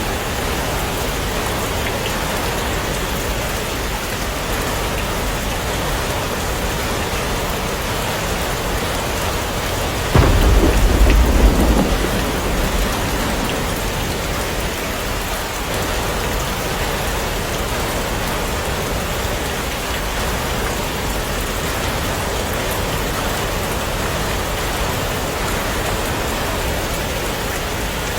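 Steady heavy rain. About ten seconds in, a sudden deep crack of thunder rumbles for two or three seconds, then fades back into the rain.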